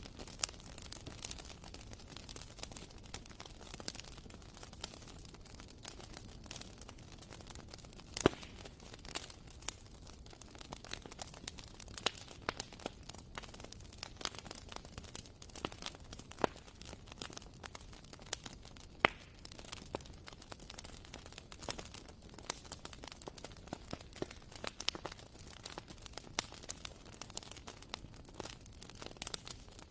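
Wood fire burning in a fireplace: a soft steady rustle of flames with irregular sharp crackles and pops, a few of them louder, one a little past eight seconds in and another a little before twenty.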